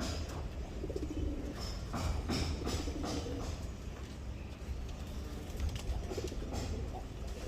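Pigeons cooing, low repeated coos, with short sharp sounds scattered through.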